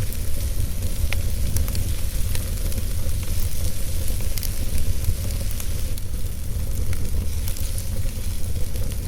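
Wood fire burning in a fireplace: a steady low rumble of flame with frequent small crackles and pops scattered throughout.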